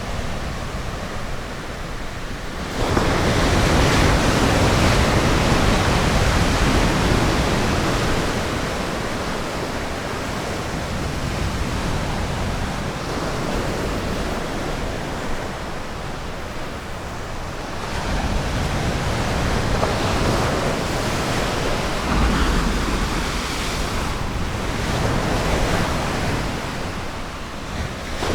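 Ocean surf breaking and washing up a beach, a steady rush that swells and eases with each wave. A louder break comes about three seconds in, and further waves swell again later.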